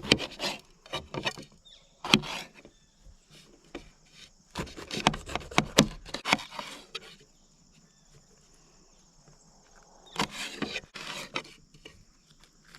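Food preparation, with peppers being cut and handled: four short bursts of rapid knocks and scrapes. Behind them runs a steady high insect chirring.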